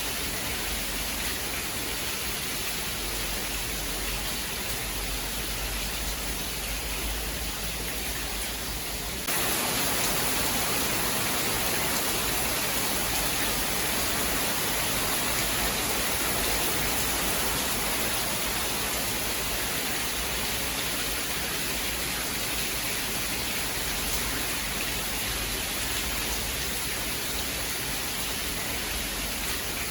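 Steady, dense rain hiss with no distinct thunder claps. About nine seconds in the sound shifts abruptly to a slightly louder, brighter hiss with less low rumble.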